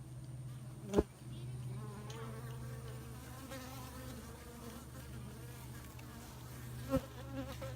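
Honeybees buzzing in flight, the wing tones of single bees wavering up and down as they pass, over a steady low hum. Two sharp taps, about a second in and near the end, stand out above the buzzing.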